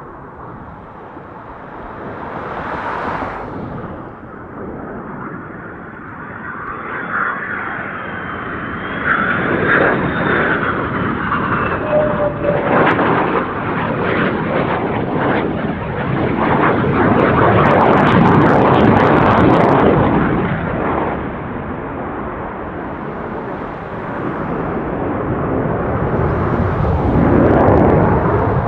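Jet aircraft flying past, a loud rushing noise with crackle that builds to its loudest about two-thirds of the way through, eases off, then swells again near the end.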